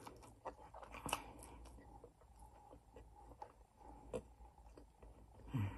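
Faint chewing: scattered soft mouth clicks and smacks of someone eating with her mouth near the microphone, with a brief low hum of the voice near the end.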